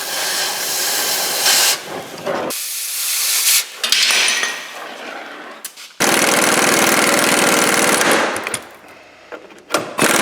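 Air tool run in bursts of a few seconds with abrupt starts and stops, cutting into a rusted leaf-spring shackle bolt. It gives a loud rattling hiss, and the longest burst starts suddenly about six seconds in.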